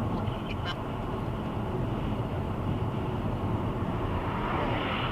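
Steady rumble of a vehicle on the move, engine and road noise, with a few faint clicks near the start.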